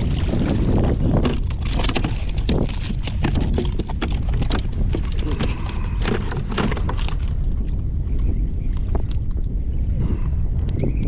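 Wind buffeting the microphone in a steady low rumble on an open kayak, with many scattered clicks and knocks over the first seven seconds or so that then thin out.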